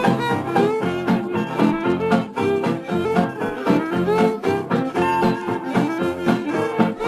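Swing-jazz band playing an instrumental introduction with brass and saxophone lines over a steady beat.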